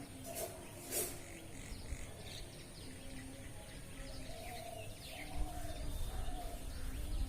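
Birds calling: short chirps and quick pitch glides, with some lower notes that rise and fall. Two sharp clicks come about a second in.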